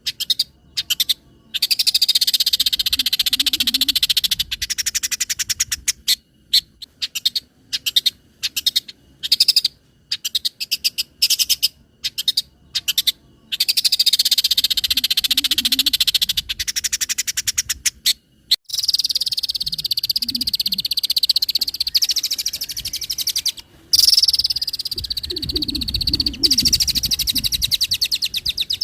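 Long-tailed shrike (cendet) singing loudly in rapid, chattering trilled phrases a few seconds long with short pauses between. The song is packed with mimicked calls of other birds, including a few lower notes near the end.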